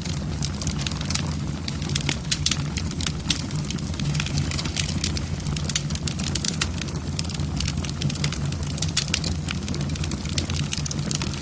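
Wood logs burning in a fireplace, crackling with many sharp, irregular pops over a steady low rumble of the flames.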